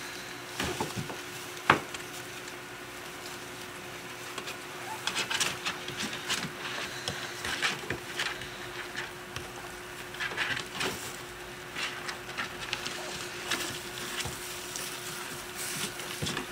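Twenty-day-old English Shepherd puppies playing: scattered scratching, pattering and scuffling of small paws and bodies, with one sharp knock near the start, over a faint steady hum.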